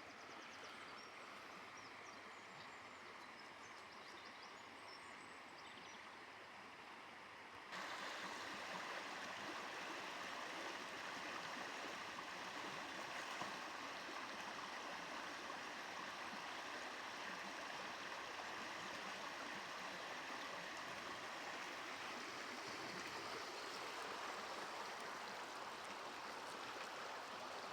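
Steady rush of flowing water from a stream, louder from about eight seconds in.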